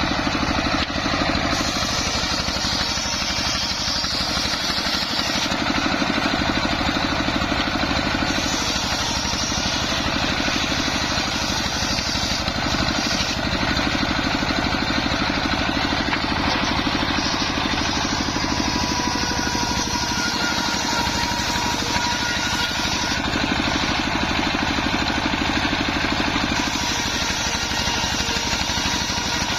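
Engine-driven home-built circular sawmill running steadily, with a faint high whine coming in around the middle.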